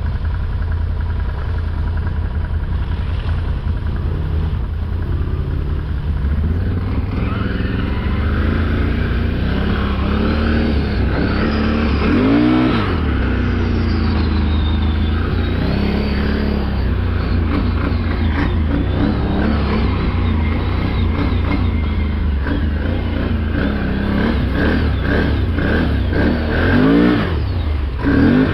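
A vehicle engine running steadily, its revs rising and falling, with sharp rev rises about twelve seconds in and again near the end.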